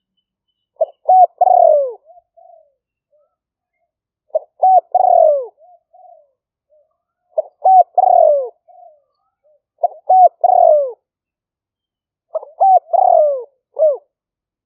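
Spotted dove cooing, five phrases about every three seconds. Each phrase is a few short clipped notes followed by a longer falling coo. It is the dove's territorial call, recorded as a decoy to lure wild spotted doves.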